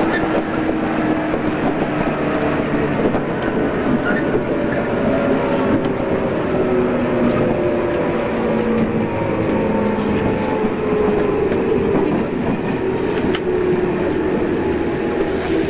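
Running sound inside a JR East 113-series electric train: the traction motor and gear hum sits in several tones that slide slowly down in pitch as the train slows, over a steady rumble of wheels on rail with a few faint rail-joint clicks.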